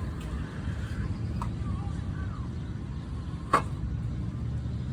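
Steady low rumble of road traffic, with a single sharp click about three and a half seconds in.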